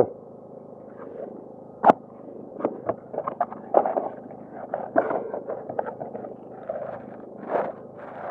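Something being handled by hand: scattered clicks, taps and crinkly rustling, with one sharp click about two seconds in.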